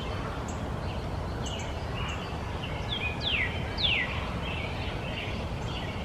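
A bird calling over a steady low outdoor background noise: a few short chirps, then two clear whistles, each sliding down in pitch, a little past halfway.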